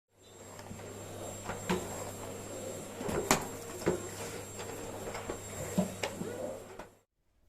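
Household handling noises: a handful of sharp knocks and clicks, like cupboard doors and objects being set down, over a steady low hum. The sound cuts off abruptly near the end.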